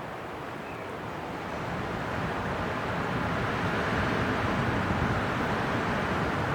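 Winter wind blowing in a steady rush that swells to a strong gust about halfway through.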